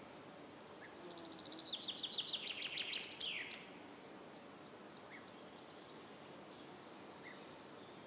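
Small songbird singing a fast, high trill about a second in that ends in a falling note, followed by a string of about ten softer short high notes, over a steady outdoor hiss.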